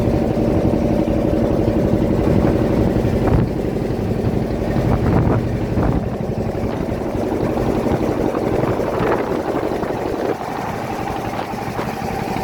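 Fishing boat's engine running steadily, with a few short thuds in the middle. The engine note shifts and gets slightly quieter about ten seconds in.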